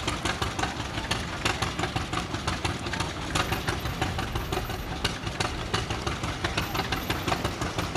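Antique tractor engine running with a steady, even beat.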